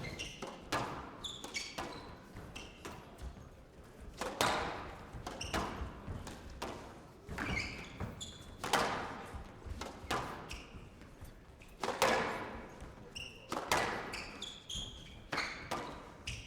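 Squash rally: the ball is struck by rackets and hits the walls in sharp cracks every second or two, with shoes squeaking on the court floor between shots.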